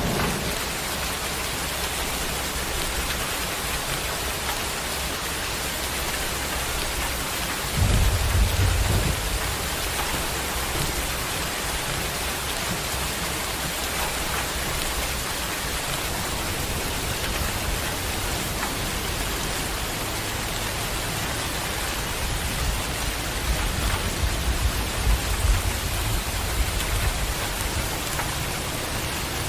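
Heavy rain falling steadily in a dense, even hiss, with low rumbles about eight seconds in and again near the end.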